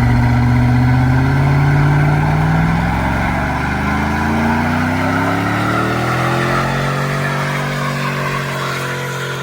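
Truck engine running at high revs during a burnout, one engine note held steady while another climbs in pitch and levels off, over a dense rushing noise; it eases off slightly near the end.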